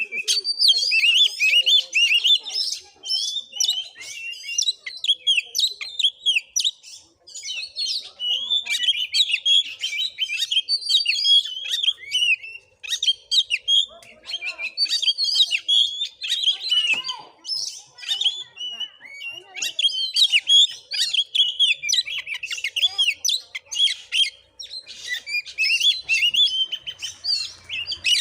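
Oriental magpie-robin (kacer) singing a fast, continuous chattering song of rapid high notes, in long phrases broken by a few brief pauses.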